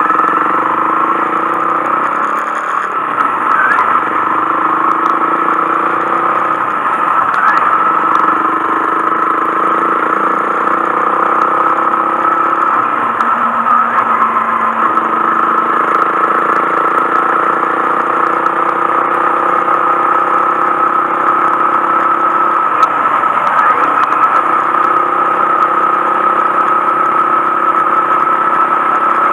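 Honda Monkey 125's single-cylinder engine running while the bike is ridden, its note stepping up and down several times as the throttle and gears change.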